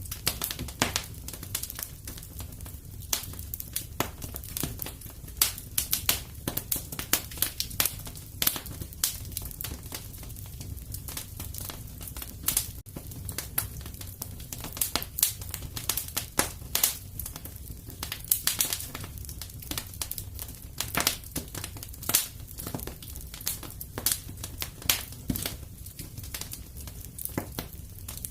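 Wood fire crackling in a fireplace: many sharp pops and snaps at irregular intervals over a steady low rumble.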